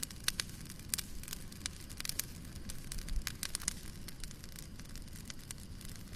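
Fire burning in a fireplace, crackling with frequent irregular sharp pops over a low steady rumble.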